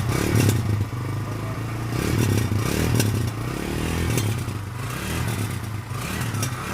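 Kawasaki Barako 2 motorcycle's single-cylinder engine running steadily at idle through an aftermarket Yutaka exhaust pipe.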